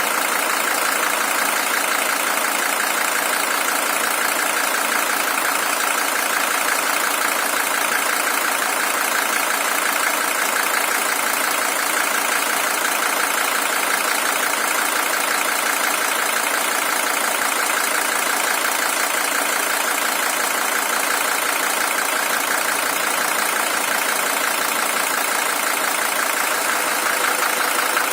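Mercedes-Benz OM617 five-cylinder diesel engine, original and at 620,000 km, idling steadily with a fine, even diesel clatter.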